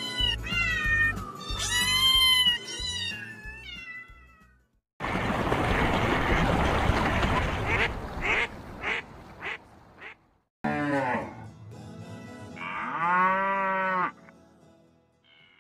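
A cat meowing several times. Then a few short duck quacks over a noisy stretch. Then a young Holstein calf bawls twice.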